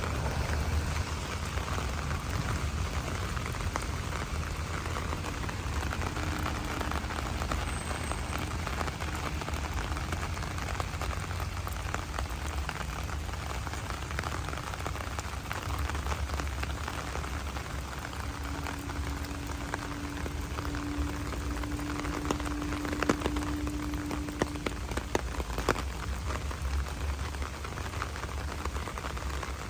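Steady rain falling and pattering on the ground and surfaces, with a low rumble underneath. A faint steady hum comes in for several seconds past the middle, and a few sharp taps of drips sound near the end.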